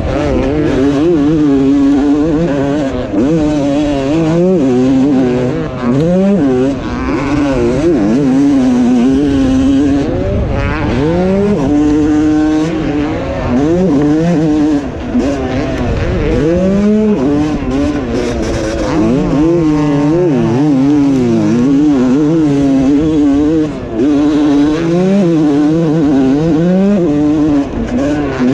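2020 Yamaha YZ250 two-stroke motocross engine revving hard and changing pitch constantly as the throttle is opened and chopped, rising through the gears, with short dips where the throttle is shut off.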